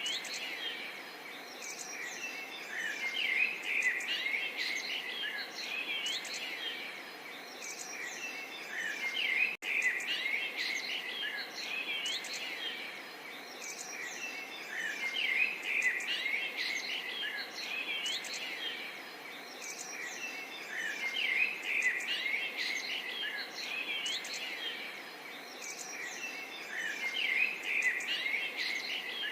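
A dense chorus of many small birds chirping and calling at once, overlapping high trills and short gliding notes, over a faint steady hiss. The sound drops out for an instant about ten seconds in.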